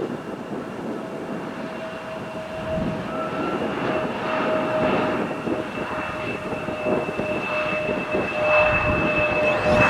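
Embraer E175 regional jet's twin GE CF34 turbofans on landing at close range: a broad engine rush with a steady whine in two tones, slowly growing louder.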